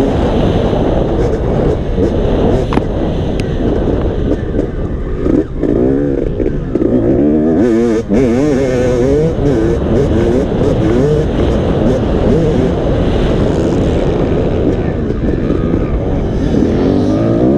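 Motocross dirt bike engine running hard, its pitch rising and falling again and again as the throttle is worked, over a constant rough rumble.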